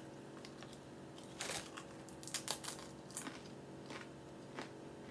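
A person chewing crunchy spicy salsa tortilla chips with the mouth closed, giving scattered soft crunches a few at a time. A faint steady hum sits underneath.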